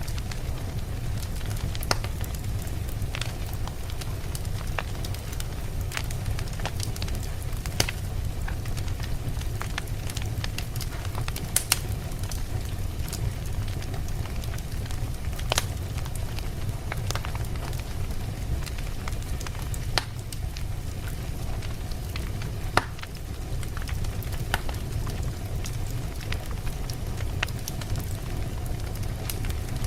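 Campfire burning: a steady low rumble with frequent sharp crackles and pops from the burning wood, a few of them noticeably louder than the rest.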